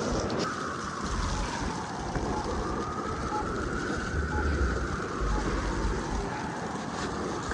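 Blizzard wind buffeting the microphone in low, uneven gusts over a steady hiss of outdoor city noise, with a faint tone that slowly rises and falls in the background.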